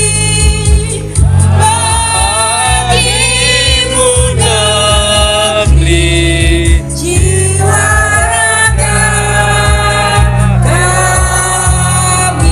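A voice singing a slow melody with long held notes over a musical accompaniment with a heavy bass.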